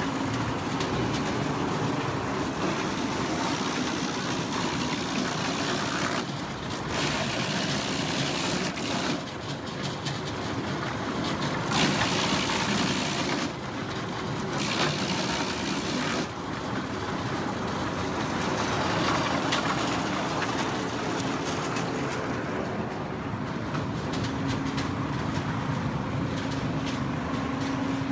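Industrial wood chipper shredder running. A steady motor hum is loudest near the start and end, and a rougher, harsher noise in the middle comes and goes in stretches as the machine chips wood under load.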